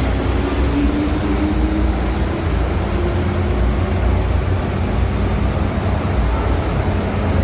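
Hong Kong MTR M-Train (first-generation 1979 CM Stock) running on the line: a steady low rumble with a faint whine rising in pitch over the first few seconds.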